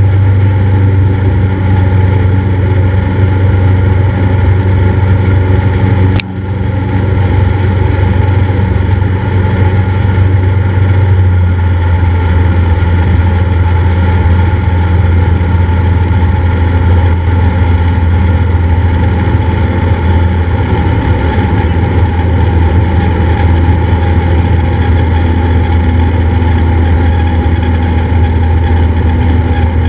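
Cessna 172's engine and propeller droning steadily. There is a single sharp click about six seconds in, with a brief dip in the sound.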